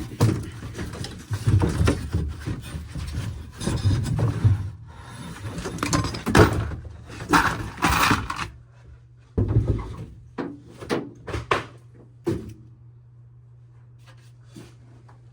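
A car's sunroof assembly being worked loose and pulled out of the roof: several seconds of scraping and rubbing with heavy knocks, then scattered lighter knocks and clicks that thin out near the end.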